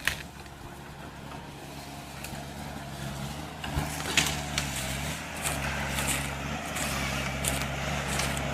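A heavy machine's motor running with a steady low hum; its pitch dips briefly about halfway through, as under a passing load, with a few sharp clicks or knocks on top.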